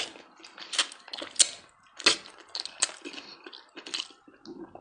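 Close-miked eating sounds: a string of irregular, sharp wet smacks and clicks from a mouth sucking in and chewing lamb neck meat.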